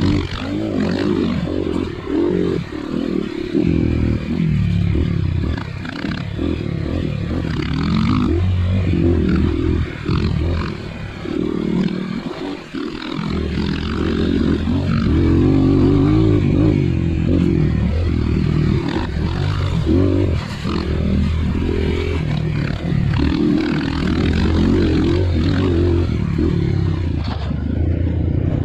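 Trail motorcycle engine running under load, the revs rising and falling as the throttle is worked, with the bike's chassis clattering over rough ground. The engine backs off briefly a few times, most deeply about twelve seconds in.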